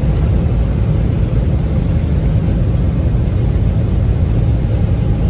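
Cabin noise inside a Boeing 777-300ER airliner in flight: a steady, loud low rumble of engines and rushing air with no change.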